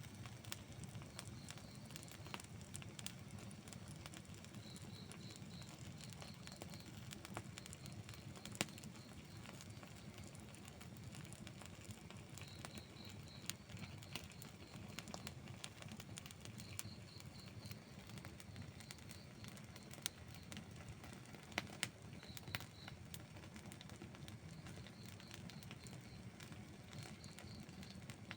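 Wood fire burning with steady low crackling and scattered sharp pops, the loudest at about 9 seconds and a cluster around 20 to 22 seconds in. A faint high chirping repeats in short runs several times behind the fire.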